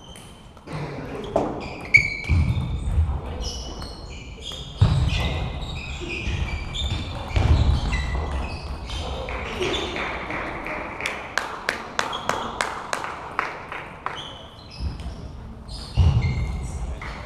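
Table tennis balls clicking off bats and the table, with a quick run of sharp hits about halfway through, amid voices in the hall.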